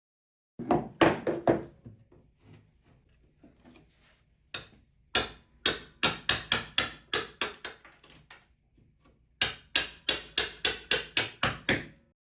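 Repeated hammer blows on a chisel cutting into wood: a quick cluster of strikes near the start, then two steady runs of about three to four blows a second.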